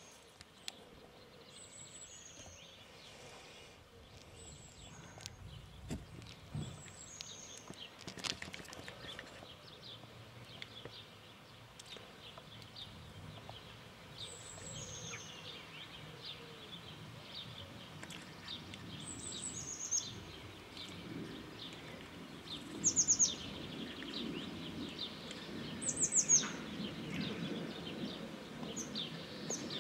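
Birds singing outdoors: short high chirps that fall in pitch, often in pairs, repeating every few seconds and loudest about three-quarters of the way through. A low rumble builds near the end.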